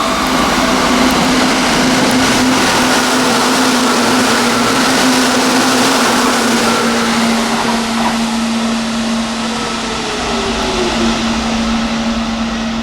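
Seibu Railway electric train passing through a station at speed: loud, continuous wheel-and-rail noise with a steady low motor tone, and a falling whine about two-thirds of the way through.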